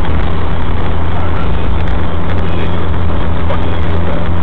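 Suzuki SX4's four-cylinder engine breathing through a newly fitted K&N Apollo intake at a steady highway cruise: a constant low drone mixed with tyre and wind noise, heard from inside the cabin.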